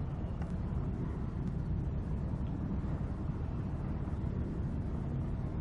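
Tug boat's engine running under way: a steady low rumble.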